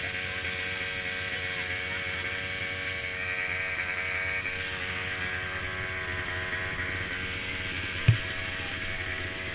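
Small mini quad engines running steadily with an even buzz, and a single low thump about eight seconds in.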